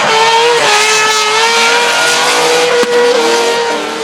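Naturally aspirated three-rotor 20B peripheral-port rotary engine of a Mazda MX5 drift car, held at high revs at a nearly steady pitch, with a slight dip about half a second in.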